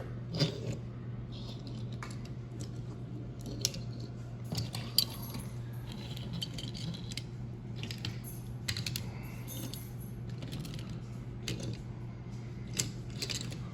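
Die-cast toy cars clicking and clinking together as they are gathered up and set down, a scattering of small sharp clicks over a steady low hum.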